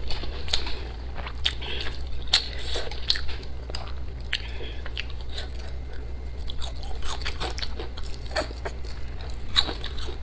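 A person chewing and biting food close to a clip-on microphone, with many short wet smacks and crunches at irregular moments over a steady low hum.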